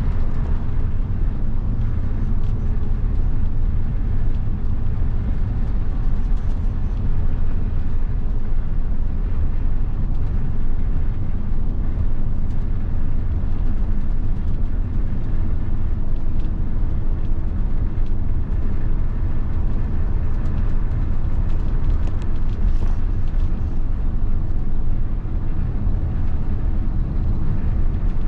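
1990 Mitsubishi Fuso bus's 7.5-litre diesel engine running steadily, its sound concentrated low.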